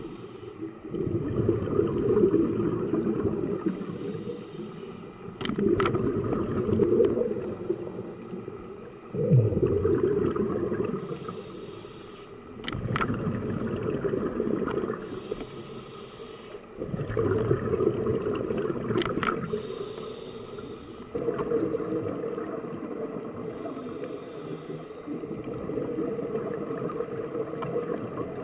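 A scuba diver breathing through a regulator underwater in a slow repeating cycle: a short hiss on each inhale, then a long rumble of exhaled bubbles.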